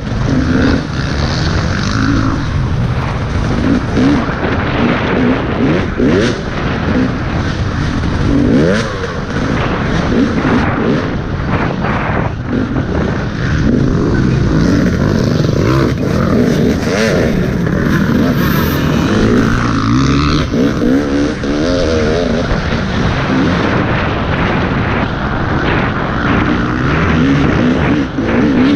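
Motocross dirt bike engine revving up and down hard as it accelerates and shifts, picked up by a helmet-mounted camera with wind and rough-ground noise.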